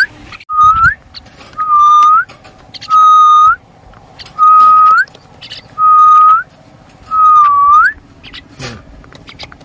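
A loud whistled note, held steady and flicking upward in pitch at its end, repeated about seven times, roughly once a second.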